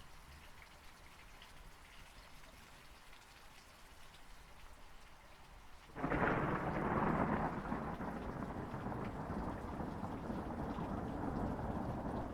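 Steady rain falling, then about halfway through a thunderclap breaks in suddenly and rolls on as a long rumble over the rain.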